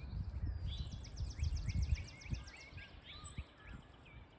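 Songbirds singing, with a quick run of repeated chirps in the first half, over an uneven low rumble.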